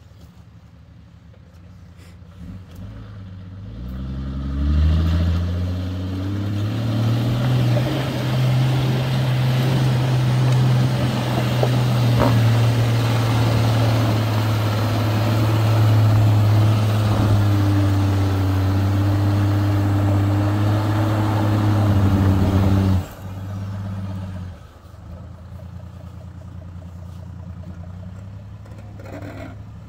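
A motor vehicle's engine climbs from idle to high revs over a few seconds, holds steady at high revs for about fifteen seconds, then drops suddenly back to a low idle about three-quarters of the way through.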